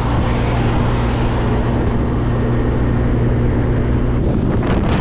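Classic car driving at a steady speed: a steady engine hum under road and wind noise. About four seconds in, the engine hum drops away and wind starts buffeting the microphone in gusts.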